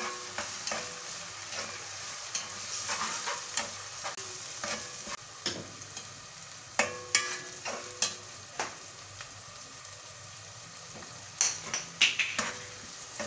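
Chopped onions and ginger-garlic paste sizzling in hot oil in a metal handi, stirred with a plastic spoon that scrapes and taps the pot at irregular moments, with a quick cluster of sharper taps near the end.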